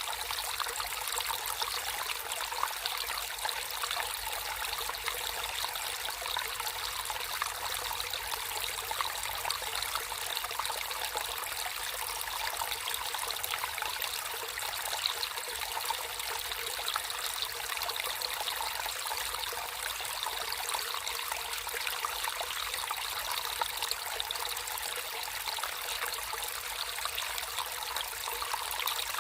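Water flowing and trickling steadily in a small stream, a continuous babble without pauses.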